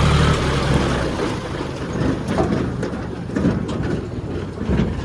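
Heavy diesel machinery running: a steady low engine hum drops away about half a second in, then gives way to irregular rumbling with scattered knocks and clanks.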